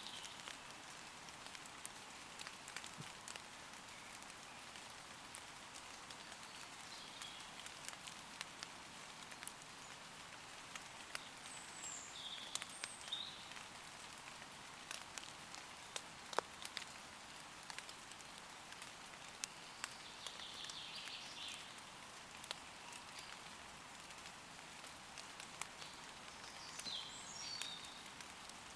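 Gentle rain falling on forest leaves, a steady hiss dotted with many separate drop ticks. A few short bird calls come in the middle and near the end.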